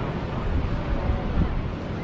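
Wind buffeting the microphone, a heavy fluttering rumble over the steady wash of ocean surf.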